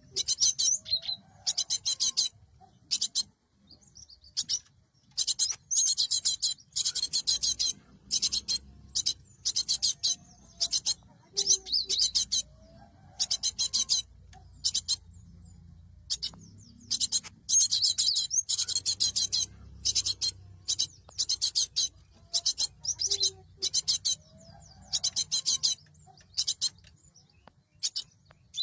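Cinereous tit calling: short, high, buzzy call notes repeated in quick runs, broken by brief pauses.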